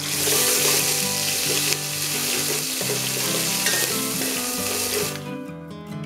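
Ginger-garlic paste and cumin seeds sizzling in hot oil in a steel kadai, stirred with a steel spatula. The sizzling cuts off sharply about five seconds in, leaving background guitar music.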